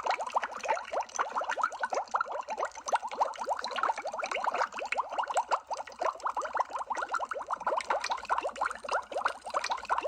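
Underwater bubbling: a dense, steady stream of water bubbles, each a short rising blip.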